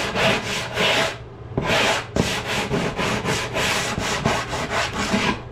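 Wood being sanded by hand in quick back-and-forth strokes, about four a second, with a short pause about a second in.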